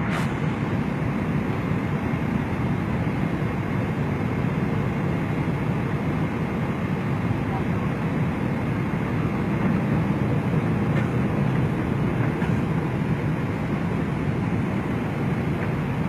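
Steady airliner cabin noise: engine and airflow sound heard from inside the plane, holding an even level.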